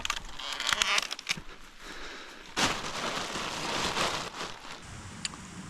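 Campfire crackling and popping: a run of sharp pops in the first second or so, then a steady rushing hiss of the flames with an occasional single crack.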